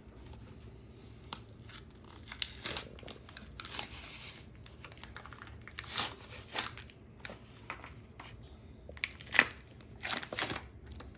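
Plastic wrapping on a pack of modeling clay being torn open and crinkled by hand, in irregular rustles and crackles with a sharp snap about nine seconds in.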